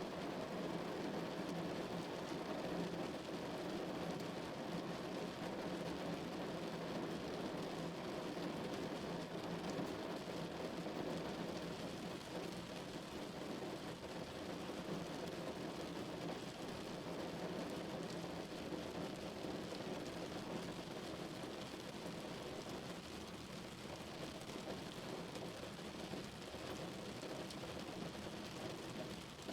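Steady rain drumming on a car's roof and windows, heard from inside the car, a dense, even patter without separate drops standing out.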